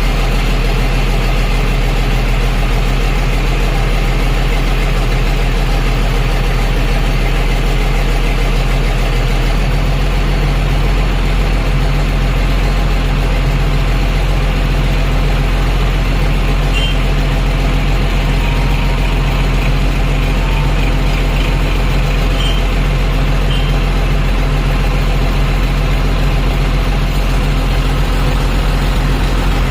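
Heavy diesel engine of a construction machine running steadily. The low part of its note changes slightly about ten seconds in.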